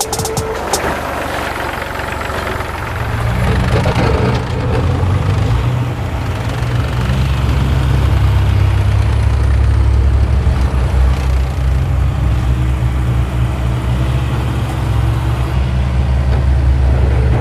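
Heavy engine running steadily with a deep, even rumble, growing louder about three seconds in.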